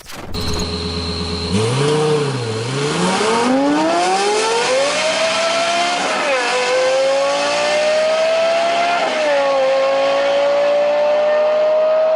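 A car engine blips once, then accelerates hard through the gears. Its pitch climbs, drops sharply at an upshift about halfway through, climbs again, and drops at a second upshift about three quarters through before rising on.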